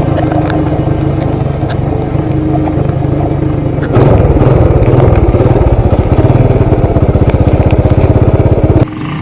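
Motorcycle engine running, getting louder about four seconds in with a fast, even pulsing, then stopping abruptly near the end.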